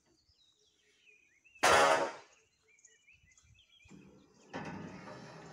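Small birds chirping in short, high twitters, cut across about a second and a half in by one loud, brief cry from an unseen source, and near the end by a longer, rougher call.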